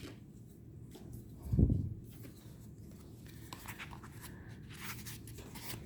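Tarot cards being handled on a table: faint scrapes and light clicks of card stock, with one dull thump about a second and a half in.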